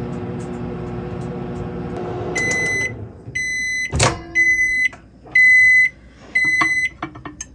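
Microwave oven running with a steady hum, then it stops and beeps five times about a second apart to end its cycle. There is a sharp click about midway. The oven runs but does not heat, so the water comes out cold: the fault is not the fuse.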